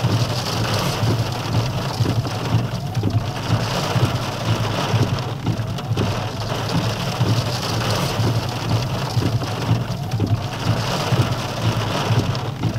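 Rain falling on a vehicle's windshield and roof, heard from inside the cab as a steady wash of many small drop hits, with a steady low hum of the vehicle underneath.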